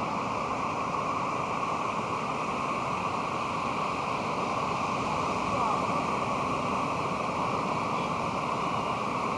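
Pacific Ocean surf breaking on the beach, heard as a steady, unbroken wash of noise.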